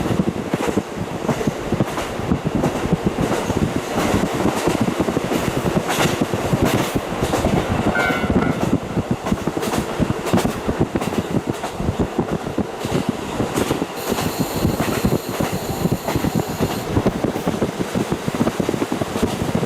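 KiHa 40 diesel railcar running along the line, heard through a fully open window: diesel engine and rushing air, with the wheels clicking over rail joints. A high-pitched shrill sound lasts about three seconds around two-thirds of the way through.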